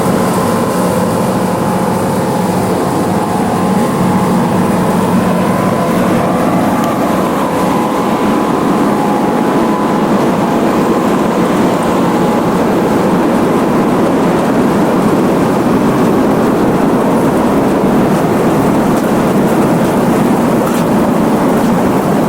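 Diesel engine of harvest machinery running steadily under load, with a continuous low drone and a faint whine in the first half; it grows a little fuller and louder about halfway through.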